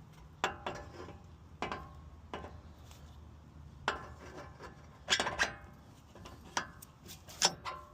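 Metal tools and steering parts clinking and knocking against each other, about eight separate clanks with short metallic ringing, the loudest a little after five seconds and again near the end.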